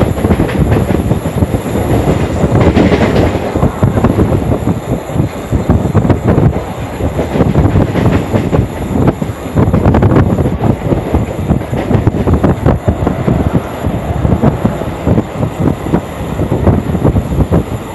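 Suburban electric local train running at speed, heard from inside the coach by an open doorway: a loud, steady rattle of wheels on the rails with the coach body shaking.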